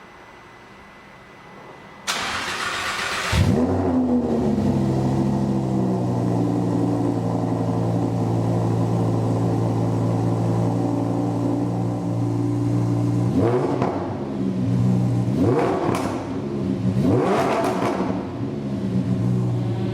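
A Lamborghini Huracan's V10 with a GMG racing exhaust is cranked for about a second, catches with a flare of revs and settles into a steady idle. Near the end it is revved three times.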